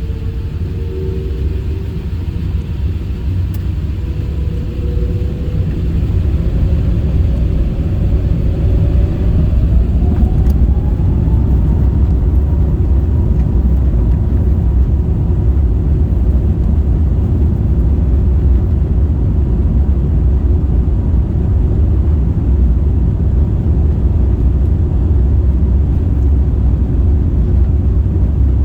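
Airbus A350-1000's Rolls-Royce Trent XWB engines over a steady low rumble. About six seconds in they spool up: the sound grows louder and a whine rises in pitch for several seconds, then holds steady at high thrust.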